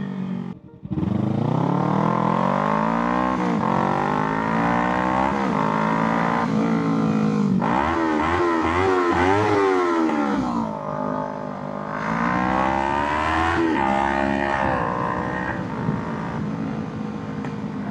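Kawasaki Ninja 300 parallel-twin engine under way, its pitch climbing repeatedly and breaking off as the revs change, with a brief dropout about half a second in. It runs lower and steadier around two thirds of the way through, then climbs again.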